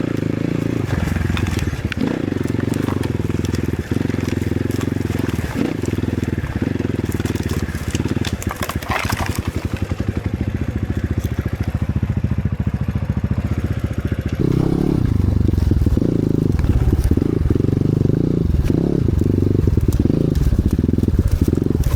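Enduro motorcycle engine running under the rider's throttle on a trail: an evener, lower-revving stretch in the middle, then louder, choppy bursts as the throttle is blipped on and off from about two-thirds of the way through.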